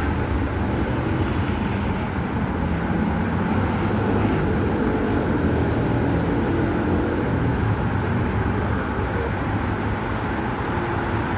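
Steady rumble of a vehicle in motion, even in level throughout, with faint high-pitched ticks about twice a second.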